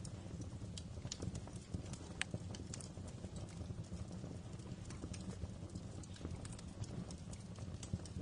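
Wood fire in a fireplace crackling, with irregular small pops and snaps over a steady low rumble of the flames.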